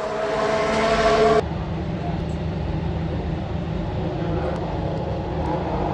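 A Ferrari racing car's engine sounds loudly on a steady note for about a second and a half, then cuts off abruptly. A low, steady rumble of engines follows.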